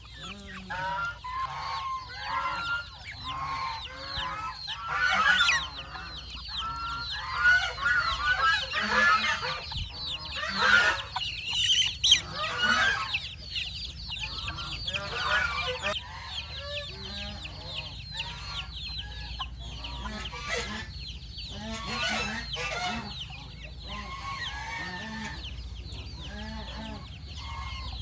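A flock of chickens clucking and calling over one another, many at once, with louder bursts of calls every few seconds.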